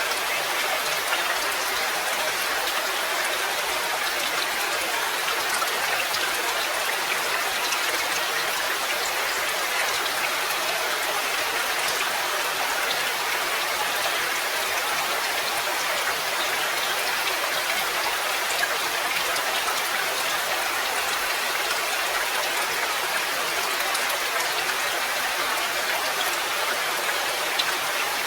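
Steady rain: an even hiss of falling rain with scattered individual drop taps, holding level without a break.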